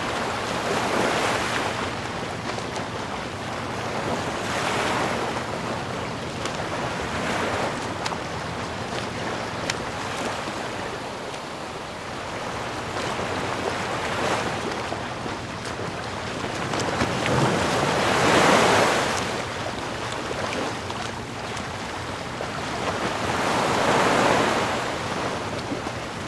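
Ocean surf: waves breaking and washing in, the rush of water swelling and fading every few seconds, with the loudest wave about eighteen seconds in.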